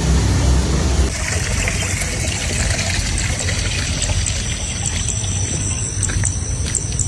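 Water trickling and splashing, with a low engine rumble that cuts off about a second in. From about four seconds in, a string of short, high chirps repeats over the water.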